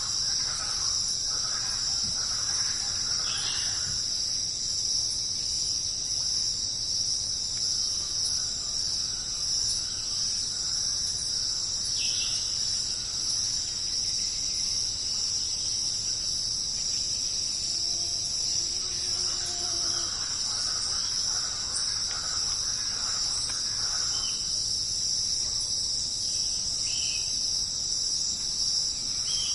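Dense, steady chorus of rainforest insects: a continuous high-pitched drone. Faint, scattered bird calls sit beneath it, a few short calls near the start, around the middle, and later on.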